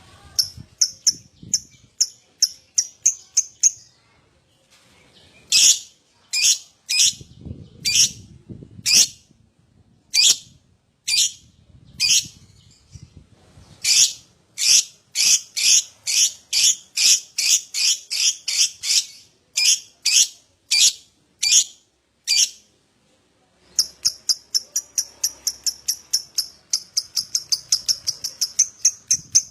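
Lovebird ngekek: long runs of sharp, high chattering calls, some runs slow at about two calls a second and others fast at four to six a second, broken by short pauses.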